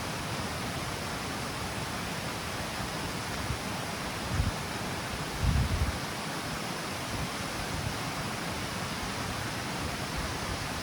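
Water falling over the steps of a river cascade, a steady even rush. Two brief low rumbles stand out, about four and five and a half seconds in.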